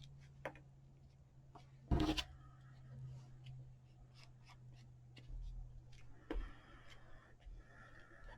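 Small taps and clicks of a rubber stamp and craft supplies being handled on a desk, with one louder knock about two seconds in, over a low steady hum.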